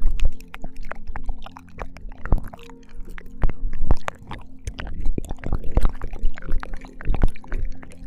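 Binaural ASMR ear-licking: wet mouth clicks and smacks close to the microphone, coming in quick irregular clusters, over a faint steady low drone.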